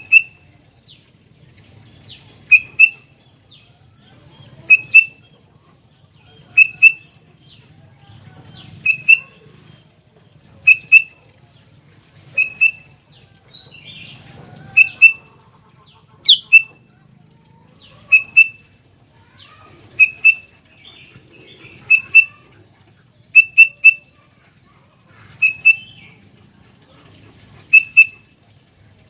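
Sooty-headed bulbul (kutilang) calling: loud, sharp, clipped notes, usually in pairs, repeated about every two seconds.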